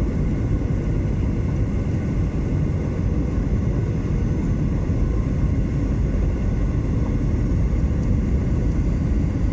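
Steady cabin roar of a Boeing 737-800 in flight: engine noise and air rushing past the fuselage, heard inside the cabin, mostly low rumble with a few faint steady tones over it.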